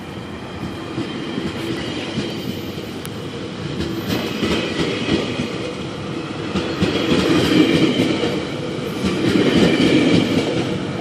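Ten-car GO Transit commuter train's passenger cars rolling past as it pulls out, wheels clattering over the rails with a faint squeal, growing louder as it gathers speed.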